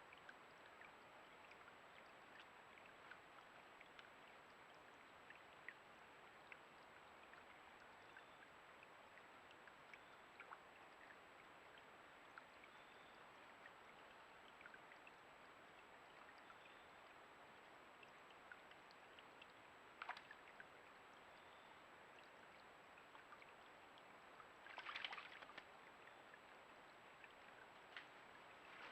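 Faint steady trickle of running creek water, with scattered small ticks and a brief louder noise about 25 seconds in, under a thin constant high whine.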